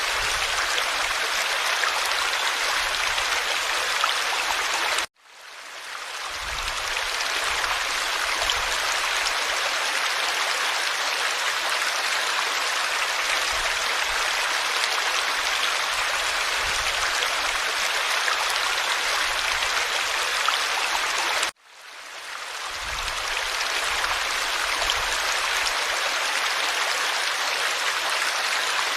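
Forest stream flowing steadily, a continuous rushing babble of water. The sound cuts out abruptly twice, about five seconds and about twenty-one seconds in, and swells back over a second or two each time.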